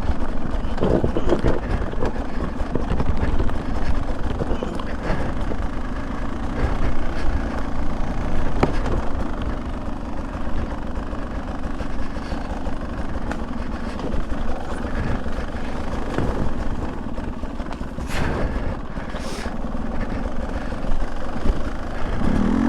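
A Beta 200 two-stroke dirt bike engine runs under way on a trail, its level rising and falling with the throttle. Two short knocks come near the end.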